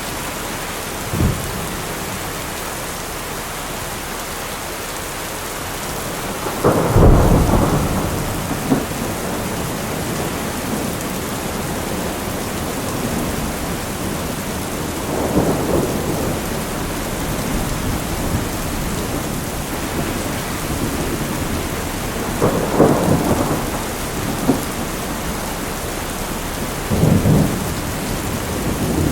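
Thunderstorm: steady heavy rain hiss with rumbles of thunder rolling through, the loudest about seven seconds in and further ones near the middle and toward the end.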